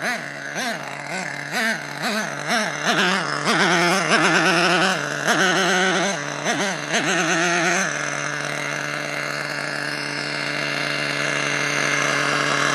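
HPI 4.1 nitro engine in a radio-controlled truck, revved up and down in quick throttle blips for about eight seconds, then settling into a steady idle. It is warming up, and the owner judges it to be running rich.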